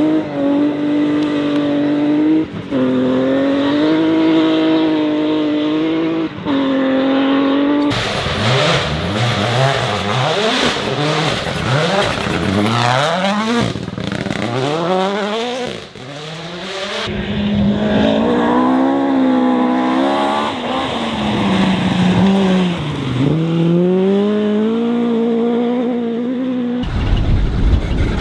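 Rally cars driven flat out on gravel forest stages, several cars in turn: engines revving hard and dropping at gear changes, with the pitch sweeping down as cars pass by.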